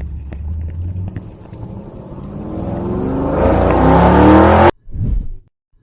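Car engine revving up, its pitch and loudness climbing, then cutting off abruptly about four and a half seconds in. Short, evenly spaced bass beats of music start right after.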